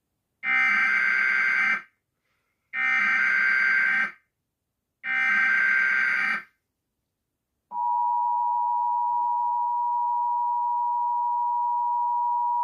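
Emergency Alert System tornado warning: three short bursts of harsh digital data tones with brief silences between, then, about 7½ seconds in, the steady two-tone attention signal starts and holds.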